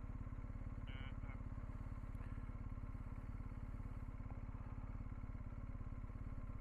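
Motorcycle engine idling steadily with an even low pulsing beat. A short high chirp sounds about a second in.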